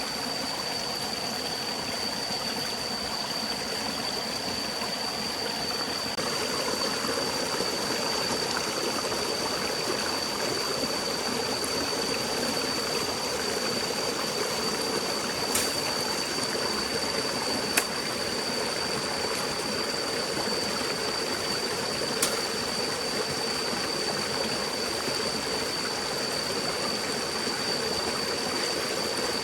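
Forest stream running steadily, an even rush of flowing water that grows slightly louder about six seconds in. A thin, steady high tone sits over it, and a few sharp clicks come in the second half.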